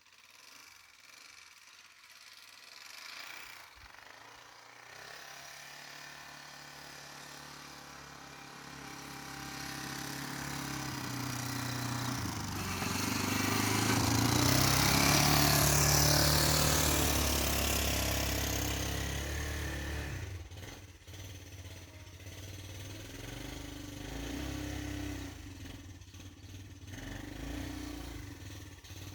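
An ATV (4 wheeler) engine running, growing louder to a peak about halfway through, with a rushing hiss at its loudest, then easing off and staying lower near the end.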